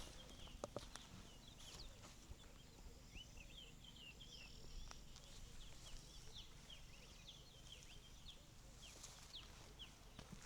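Faint chorus of small birds chirping: many short, quick chirps overlapping throughout, with a few soft clicks near the start.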